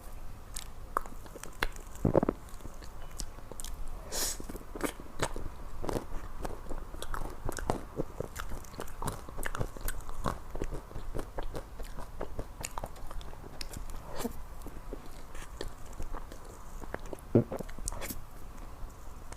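Close-miked eating sounds of a person chewing and biting into ice cream cake, with many small wet mouth clicks and smacks throughout and a couple of sharper clicks about two seconds in and near the end.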